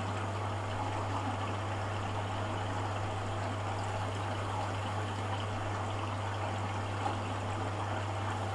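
Hoover Dynamic DYN11146PG washing machine rinsing: water running steadily in the machine over a constant low hum.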